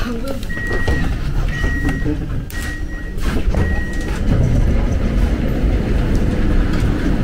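Train running with a steady low rumble. A high beep sounds four times, about once a second, in the first half, over a few brief knocks.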